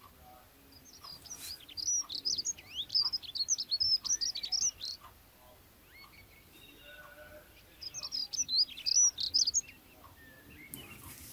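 A songbird singing in two spells of rapid, high twittering: the first begins about a second in and lasts some four seconds, the second comes a little before the end.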